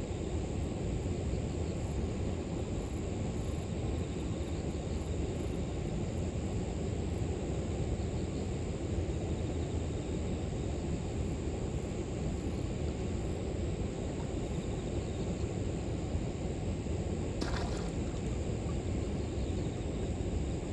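River water flowing with a steady rushing sound, under a constant high buzz and rapid chirping of grass insects. One short, sharp sound stands out about three-quarters of the way through.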